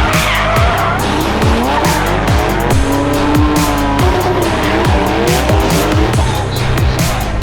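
Car tyres squealing and an engine revving during spinning or drifting, over electronic music with a heavy, regular beat.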